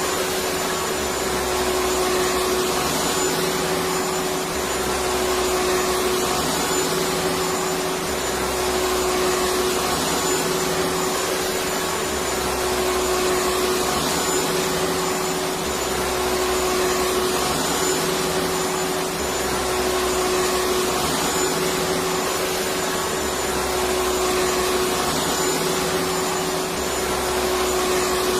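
Electric vacuum cleaner running steadily: a constant motor hum and airflow with a steady whine, and a low rumble that swells and fades every few seconds.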